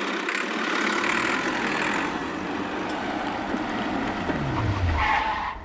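A motor running steadily, like a vehicle engine, with a low tone that falls in pitch near the end before the sound cuts off suddenly.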